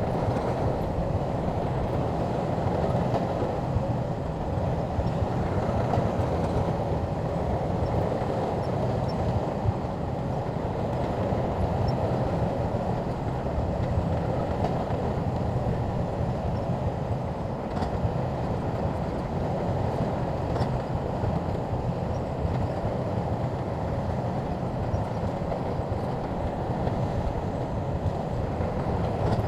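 Shantui bulldozer's diesel engine running steadily as a continuous low drone, with no breaks or changes.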